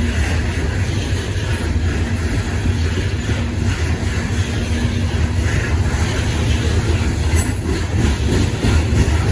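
CSX freight train rolling past, its cars making a steady, loud rumble.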